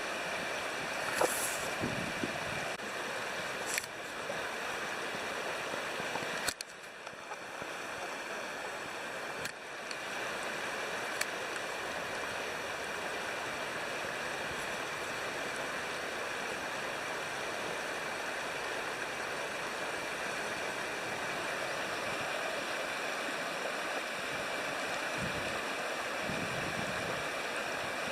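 Steady rush of a river's flowing water, with a few sharp clicks in the first ten seconds or so and a brief dip in level about six and a half seconds in.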